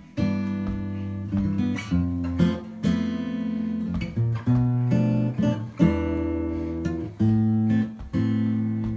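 Guitar music: strummed and plucked chords, a new chord struck about every half second to second.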